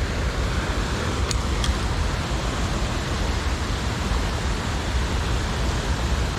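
Steady rush of flowing stream water, with two faint ticks about a second and a half in.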